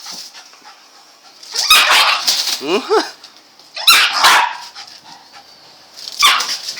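A dog barking in three loud bouts, about two, four and six seconds in, while it attacks a rooster, with a short falling cry in the first bout.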